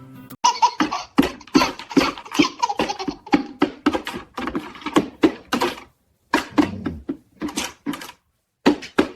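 Baby laughing in quick, repeated bursts of giggles, with two short pauses near the end.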